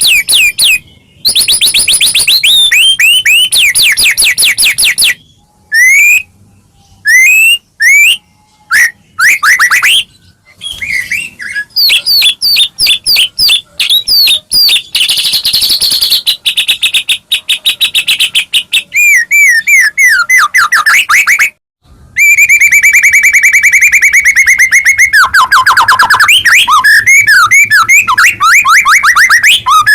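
White-rumped shama singing loudly: varied phrases of rapid repeated whistles, trills and chattering, broken by short pauses.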